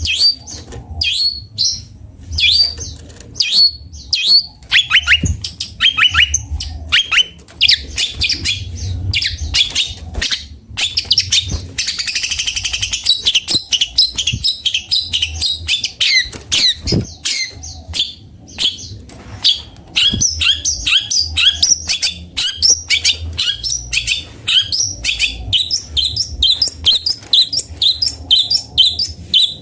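Long-tailed shrike (cendet) singing a continuous, varied song: quick sharp chirps and falling sweeps, a dense buzzy trill about twelve seconds in, then fast repeated notes through the last third.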